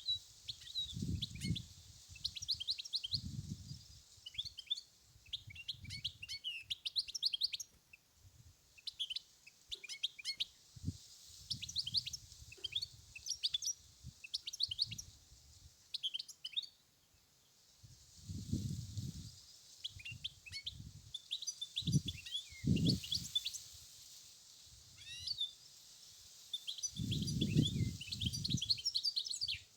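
European goldfinch singing: quick twittering phrases and trills, almost without pause. Low rumbles of wind buffeting the microphone come and go, loudest near the end.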